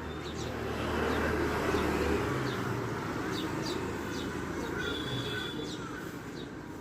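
Small pet parrots (love birds) chirping: many short, sharp, high calls, each dropping in pitch, scattered throughout. Underneath is a low rumble with some noise that swells about a second in and then eases off.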